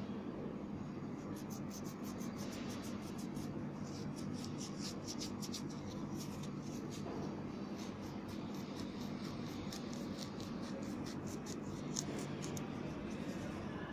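Quick, irregular scratching strokes on a hard surface over a steady low hum.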